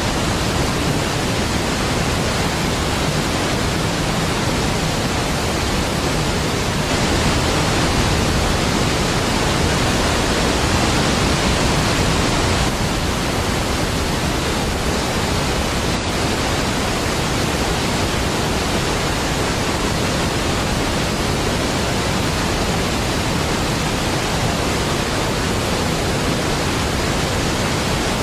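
Large waterfall: a deep, steady rush of falling water, even and unbroken, a little louder for several seconds from about seven seconds in.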